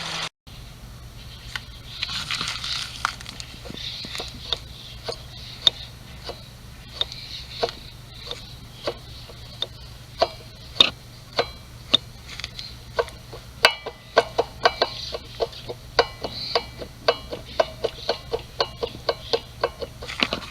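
Irregular sharp metallic clicks and ticks, some with a brief ring, coming more often in the second half, over a steady low hum.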